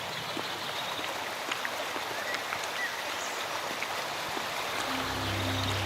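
A stream running, an even rush of water with a few short, high chirps over it. Low, steady music comes in near the end.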